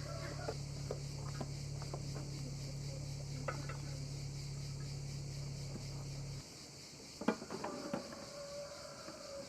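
Insects chirring steadily, with a low hum under them that cuts off abruptly about two-thirds of the way in. A few sharp clicks and knocks follow, like utensils or dishes being handled.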